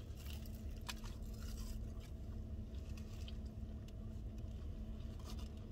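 A person chewing a mouthful of chicken ranch wrap and curly fries, with a few small clicks and crinkles, over a steady low hum inside a car.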